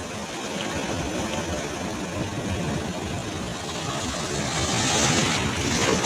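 Sea waves on a beach: a steady rumble of surf, swelling into a louder, brighter wash of a breaking wave about five seconds in.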